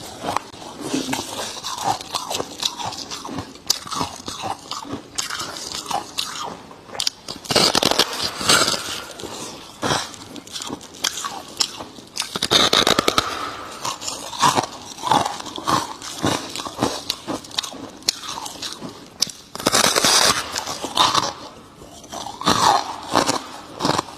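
Close-up crunching and chewing of a chunk of freezer frost: crisp, crackly bites with louder bursts of crunching a few times, around a third, halfway and four fifths of the way through.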